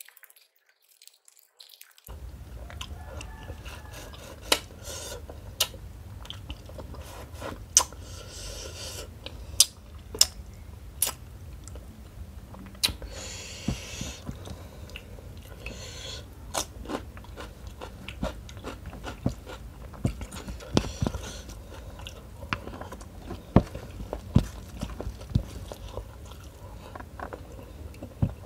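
Close-miked chewing and mouth sounds of a person eating rice and tuna curry by hand, with many sharp, wet clicks of the lips and tongue. About halfway through there is a short rustle as fingers gather rice from the plate.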